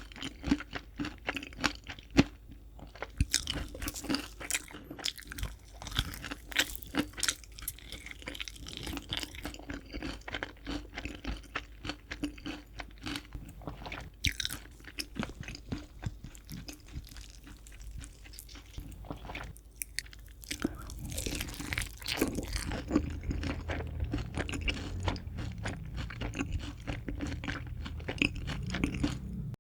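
Close-miked bites and chewing of crispy fried chicken: crackly crunches coming thick and irregular, over a faint steady hum.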